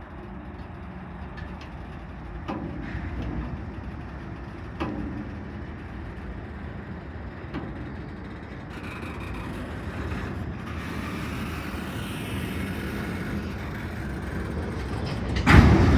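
Long freight train rolling slowly as it starts moving again: a steady low rumble with a few sharp knocks, then a loud thump near the end.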